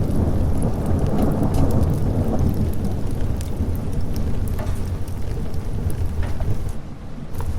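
Steady heavy rain with a low rolling rumble of thunder that swells about a second in, scattered sharp ticks of drops throughout. The sound dips briefly near the end.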